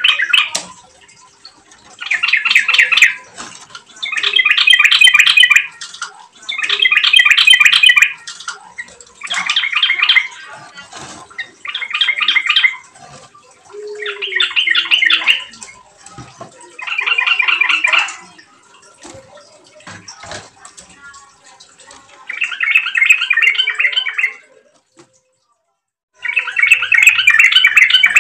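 Sooty-headed bulbul (trucukan) singing: a string of loud, bubbly warbled phrases about a second long, one every two to three seconds, with a longer pause in the last third.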